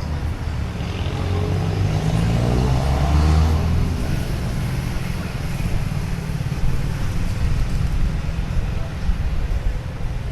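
Outdoor street ambience heard from a moving bicycle, with a heavy, steady low rumble of wind on the microphone. A motor vehicle passes and swells loudest about two to four seconds in.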